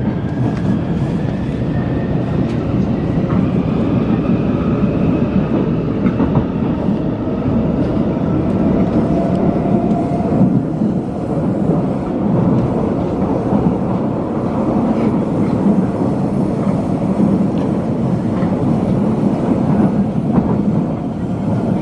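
Inside a moving electric train carriage: steady running rumble of the wheels on the track. A faint motor whine rises in pitch over the first few seconds as the train picks up speed.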